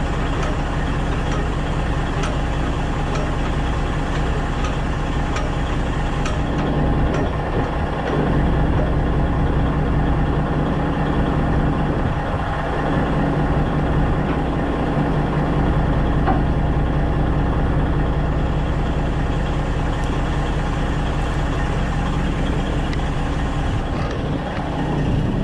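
Heavy diesel engine idling steadily, with a low, even hum that swells a little about a third of the way in.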